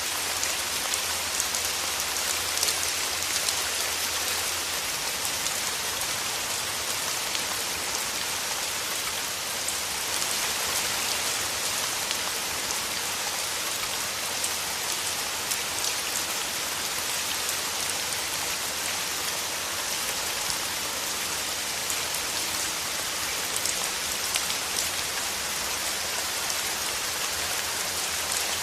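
Steady rain falling through trees, a dense even patter with many fine drop ticks.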